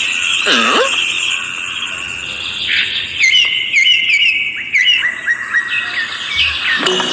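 Small birds chirping, with a quick run of about half a dozen short chirps in the middle, over a steady high-pitched hum.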